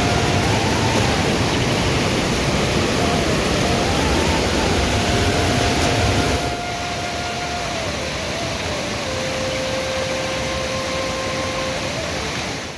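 Steady, loud rushing of water, a little quieter from about six and a half seconds in, with a slow flute melody faintly over it.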